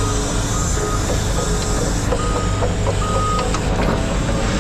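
Heavy diesel machine running steadily under a backup alarm beeping repeatedly.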